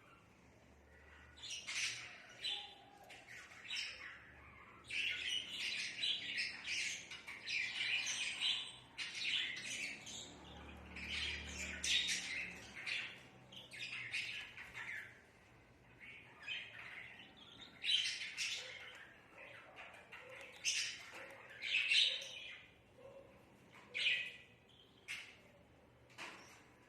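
Budgerigar chirping and chattering in short, repeated calls, in clusters with brief quiet gaps.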